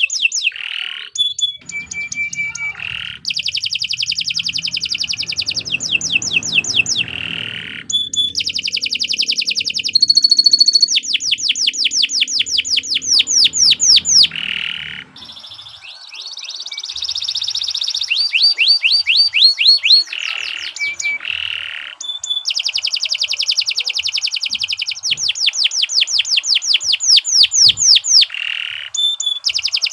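Domestic canary singing a long, nearly unbroken song. Fast rolling trills and runs of rapidly repeated chirps change from one phrase to the next, with only brief pauses.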